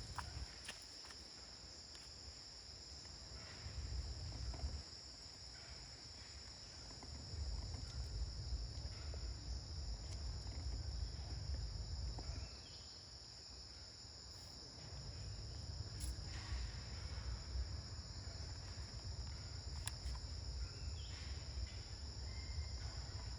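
Steady high-pitched insect chorus, with wind rumbling on the microphone in long stretches and a few faint clicks.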